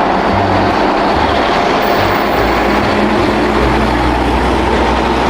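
A steady, loud rumbling vehicle-like noise with a hiss on top and a deep uneven rumble underneath.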